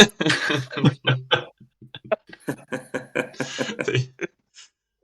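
Indistinct male voice murmuring and mumbling in short broken sounds, falling silent about four seconds in.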